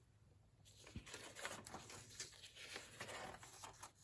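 Faint rustling of old paper pages being handled and turned in a large antique Bible, with small clicks and a soft tap about a second in.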